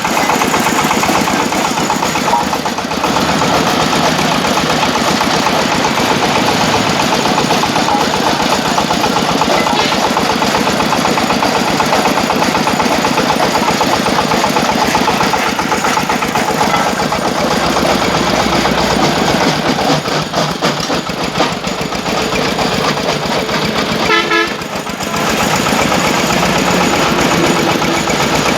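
Engine-driven brick-breaking machine running loud and steady with a rapid clatter. The level dips briefly about 20 seconds in and again near 24 seconds, where a short pitched tone sounds.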